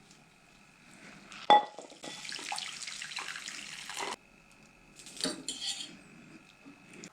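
Pots and dishes being handled: a sharp metal clank with a short ring about a second and a half in, then a rushing hiss of about two seconds that cuts off suddenly, then more clattering.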